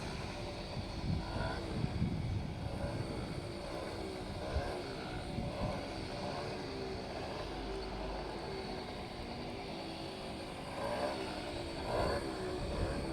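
Small motorcycle engine running and revving, its pitch rising and falling, with a louder surge near the end.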